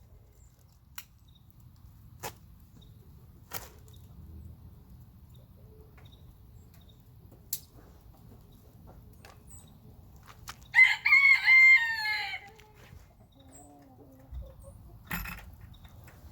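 A rooster crows once, loudly, about two-thirds of the way through, for about a second and a half. Otherwise it is quiet, with a few scattered sharp clicks and a soft low cluck just after the crow.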